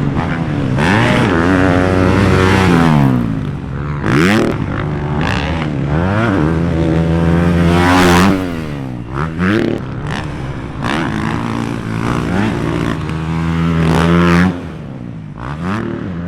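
Dirt bike engines revving, their pitch climbing and dropping again and again through the gears, with several sharp up-and-down sweeps.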